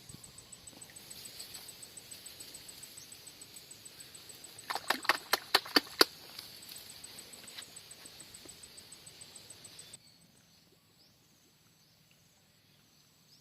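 Insects chirping in a steady, high, rapidly pulsing trill, with a quick run of sharp clicks or knocks about five to six seconds in. At about ten seconds the trill cuts off suddenly, leaving quieter background with faint scattered chirps.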